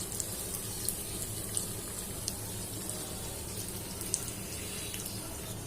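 Breaded chicken cheese balls deep-frying in hot oil in a small karahi: a steady sizzle with scattered small sharp pops.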